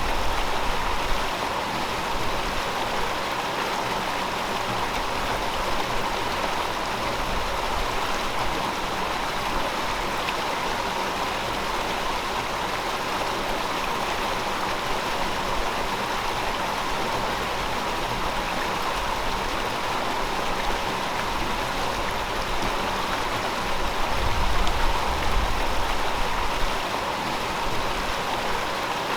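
River water running over rocks: a steady rush with no break, swelling a little in its low end now and then.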